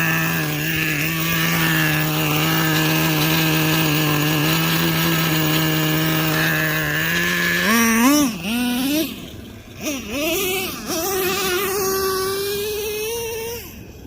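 Traxxas Revo 3.3 nitro engine running at a steady high pitch for about seven seconds, then revving up and down in quick swings, then climbing in a long rising run before dropping away near the end. The engine is running a little hot.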